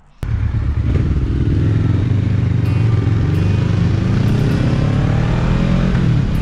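Motorcycle engine running under way, with rushing noise over it; its pitch climbs as the bike accelerates through the middle.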